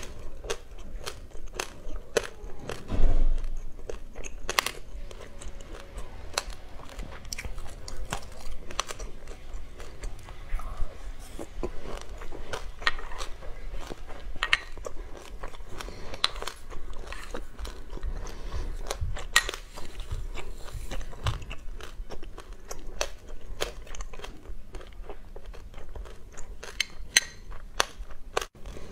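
Chewing of a mouthful of sesame seeds, with many sharp, irregular crunches and crackles, and a louder thump about three seconds in.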